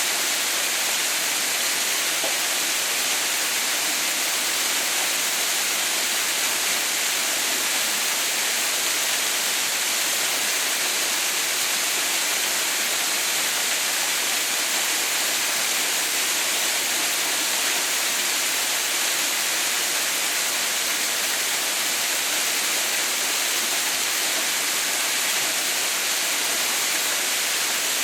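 Steady, even rush of falling water at the Haha no Shirataki waterfall, mostly a high hiss.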